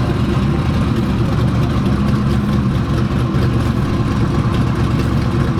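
Drag race car engine idling loudly and steadily, with no revving.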